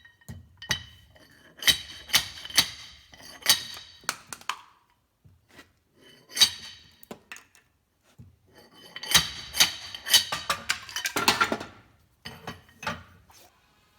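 Homemade slide-hammer splitter: a steel weight slid down a rod and slammed against the wedge tip to drive it into a pine knot. Each blow is a sharp metallic clank with a short ring, coming singly at first and then in a quick run of strikes near the end.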